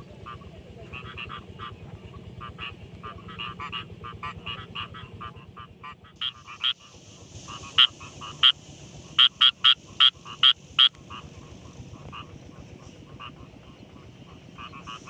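Rice-field frogs croaking in a chorus of short, rapidly repeated calls. About halfway through, a run of about ten loud, sharp croaks comes from one close frog.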